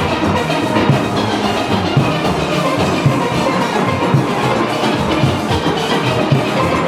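Steelband playing live: many steel pans sounding together over a steady drum beat.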